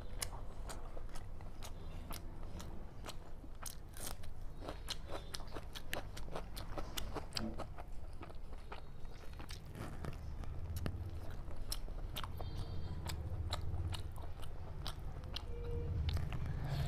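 Close-miked chewing and mouth smacking as fried rice and chicken are eaten by hand, with many sharp wet clicks several times a second.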